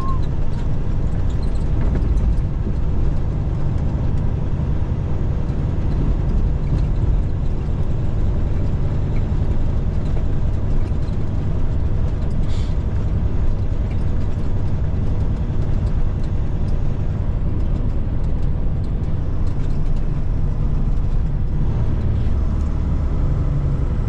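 Inside the cab of a Freightliner FLD120 semi-truck under way: the Cat 3406E inline-six diesel running with a steady low drone over road noise, and a brief hiss about halfway through.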